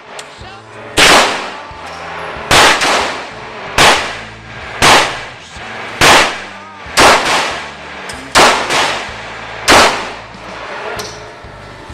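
Gunshots from a firearm fired one at a time at an uneven pace, about a second apart, with a few shots coming in quick pairs; each is a sharp crack with a short echo.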